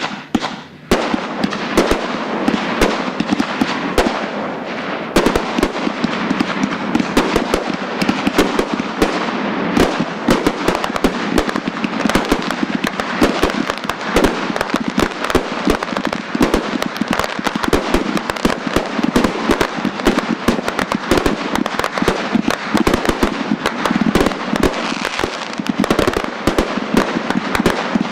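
Consumer fireworks going off in rapid succession: a dense, continuous crackle with many sharp bangs. It starts about a second in after a brief lull.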